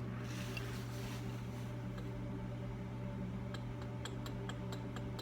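Steady low hum of a running machine, with a scatter of light clicks from a micrometer being handled.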